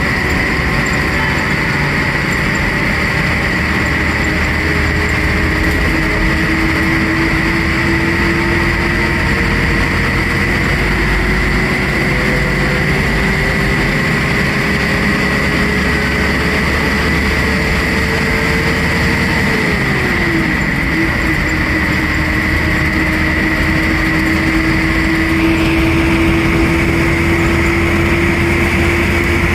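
A motor vehicle driving along a road, its engine running steadily over road and wind noise. The engine note creeps slowly upward, drops sharply about twenty seconds in, as at a gear change or slowing, then holds steady again.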